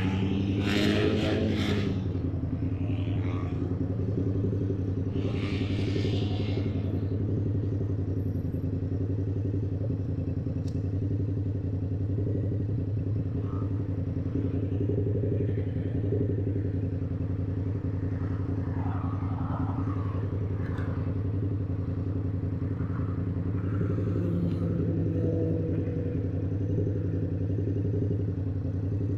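Yamaha YZF-R7 parallel-twin engine running through an SC-Project aftermarket exhaust, holding a steady, unchanging pitch, with a brief louder rush of noise about a second in.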